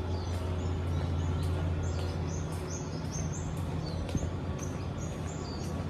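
Small birds chirping: many short, high chirps, several a second, over a steady low hum.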